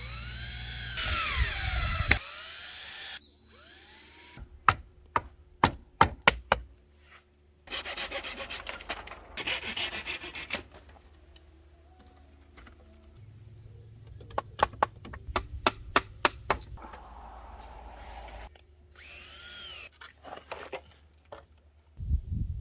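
Wood-working sounds, most likely on bamboo, in several separate stretches: sawing, and runs of sharp knocks in quick succession. Near the start and again near the end there are also sounds that rise and fall in pitch.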